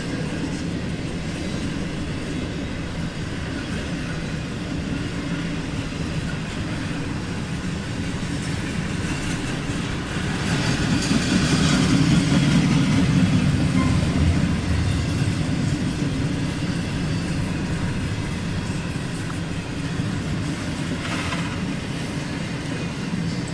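CSX Q031 intermodal freight train rolling past, a steady rumble of wheels on rail that swells louder for a few seconds about ten seconds in.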